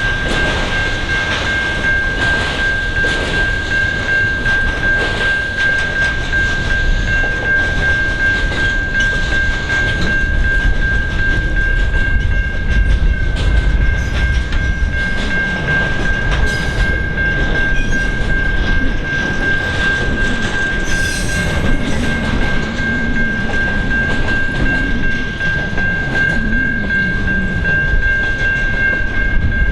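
Freight train wagons rolling past with a steady rumble and repeated clatter of wheels over rail joints, joined by a steady high-pitched squeal.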